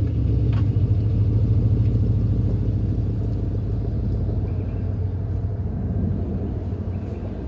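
Holden VZ Commodore SS ute's LS1 5.7-litre V8 settling into a steady, deep idle rumble through its custom twin 2.5-inch catback exhaust, which has straight-through mufflers and hotdog tailpipe mufflers. The rumble fades gently.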